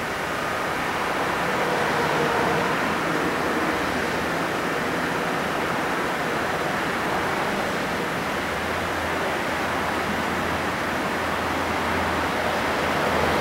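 An EF81 electric locomotive hauling blue sleeper coaches, approaching: a steady rush of running noise, with a low hum that grows from about two-thirds of the way in as the train draws near.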